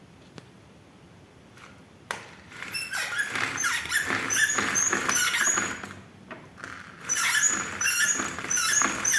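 Roller blind mechanism squeaking as the blind is rolled, in rapid strings of short high-pitched chirps: one run starting about two seconds in, a short pause, then another. The squeak is the sign of a dry roller mechanism that needs lubricating.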